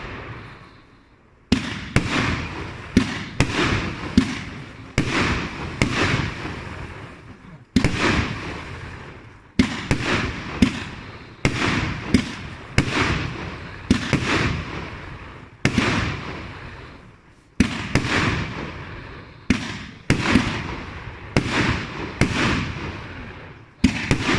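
A compact ready-to-fire firework battery going off: a steady string of loud bangs, one or two a second, each dying away in a trailing tail.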